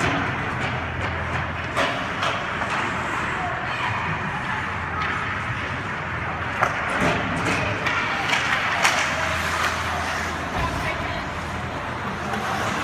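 Hockey game sounds in a rink: indistinct voices with scattered sharp knocks and clacks throughout.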